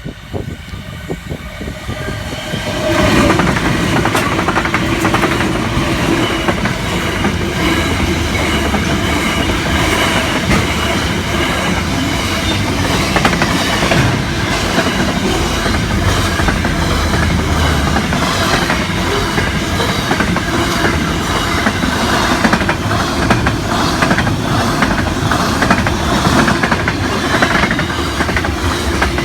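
Freight train led by an R class diesel locomotive passing close by. The sound builds over the first three seconds as the locomotive arrives, then holds as a steady, loud run of wagons with a quick regular clicking of wheels over the rail joints.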